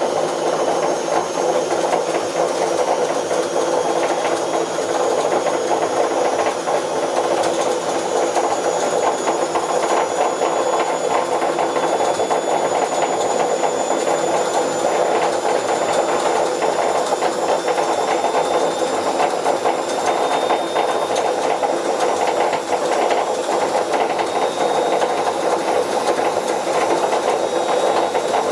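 Bauknecht WA Plus 844 washing machine running with its drum turning, giving a steady, rough rattling grind with thin high whining tones over it: the sound of a failed drum bearing.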